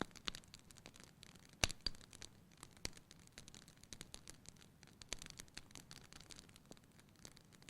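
Fire burning in a fireplace, crackling: many irregular small pops and snaps over a faint hiss, with one louder pop about one and a half seconds in.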